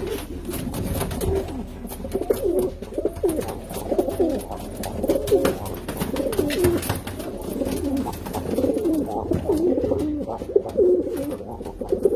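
Many domestic pigeons cooing at once, their calls overlapping continuously, with light scattered clicks.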